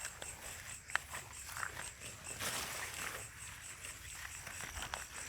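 Crickets chirping in a steady high, pulsing trill, about four pulses a second, with rustling footsteps through vegetation and a sharp click about a second in.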